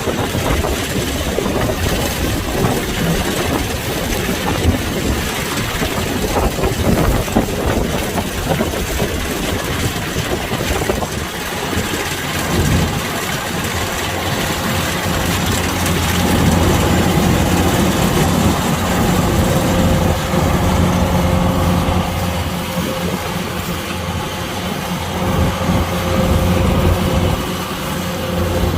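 Kubota DC-105X combine harvester running, a loud continuous machine din whose engine hum settles into a steadier tone about halfway through.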